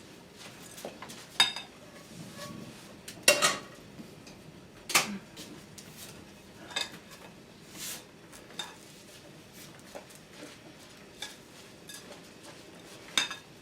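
A spoon stirring sticky birdseed mixture in a bowl: irregular scrapes and clinks against the bowl, with a few sharper knocks spaced a second or two apart.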